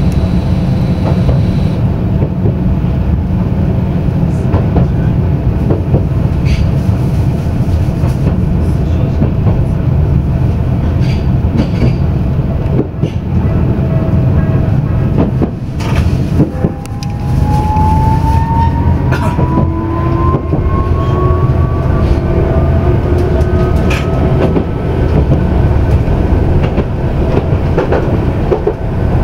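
Tokyu Setagaya Line tram running on its rails: a steady rumble with scattered clicks from the wheels. About halfway through, a brief lull is followed by a motor whine that rises slowly in pitch as the tram picks up speed.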